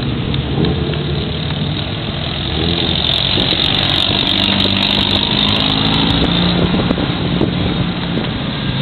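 Car engines running at low speed as race cars drive off the track, one engine's pitch rising past the middle.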